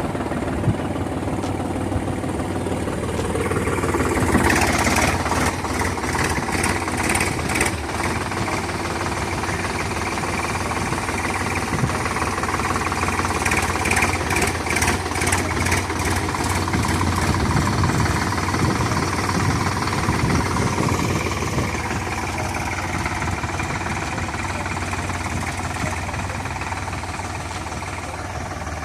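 Solis 5015 50 HP diesel tractor engine running just after start-up, with a knocking diesel clatter. It gets louder about four seconds in and eases a little near the end.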